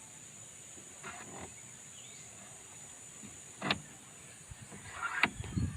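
Parts being handled during a washing machine drain repair: quiet rustling with a sharp click about halfway through and a few knocks near the end, over a steady high-pitched hiss.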